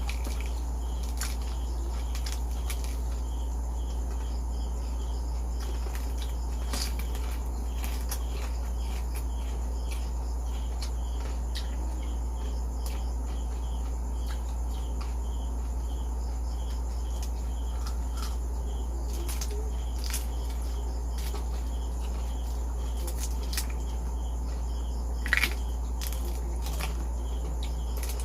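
Crunching bites of crispy deep-fried pork head, sharp cracks scattered through, with one louder crack near the end. Behind them crickets chirp steadily and a low steady hum runs throughout.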